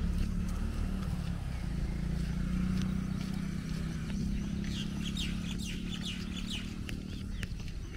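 Steady low outdoor rumble with faint footstep clicks. About halfway through, a bird calls a quick run of high chirps lasting about two seconds.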